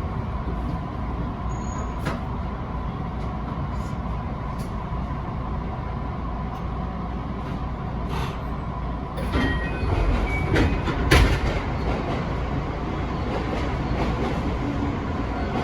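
Electric commuter train running along the track, with a steady low rumble, a faint steady whine and scattered clicks of the wheels over rail joints. Around two-thirds of the way through comes a denser run of louder clicks with a few short high squeals.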